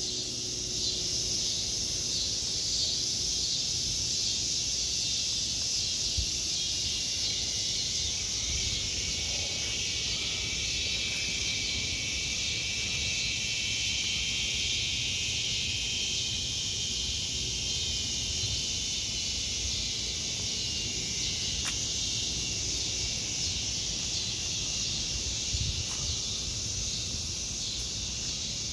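Cicadas singing in a steady, high-pitched chorus that swells a little in the middle, with a faint low rumble underneath.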